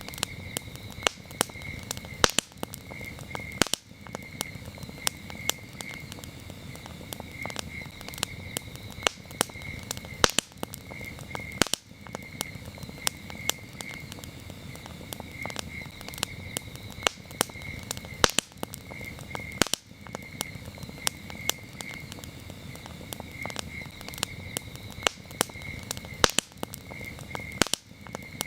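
Wood campfire crackling, with frequent sharp pops and snaps over a low rumble of the burning fire. Crickets chirp steadily behind it in short repeated pulses.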